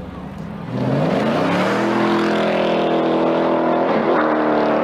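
Car engine accelerating hard: about a second in it gets much louder and its pitch climbs steeply, then holds high and steady, dipping briefly just after four seconds.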